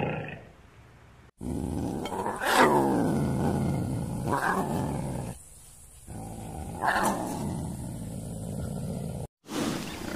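Big cats growling and snarling: harsh calls that fall in pitch, about two and a half, four and a half and seven seconds in, with abrupt cuts between the sections.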